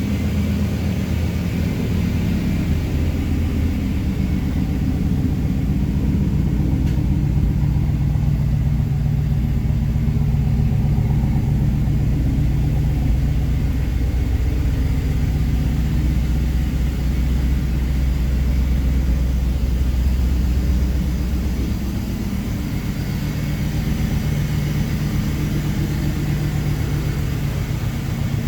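Camaro F-body's engine idling through an aftermarket GMMG exhaust, a steady low rumble that eases slightly about three-quarters of the way in.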